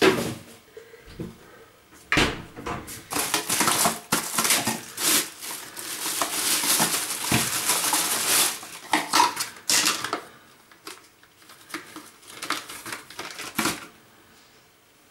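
Household items being handled in a small room: scattered knocks and clinks like dishes, with a dense rustling stretch in the middle that dies away near the end.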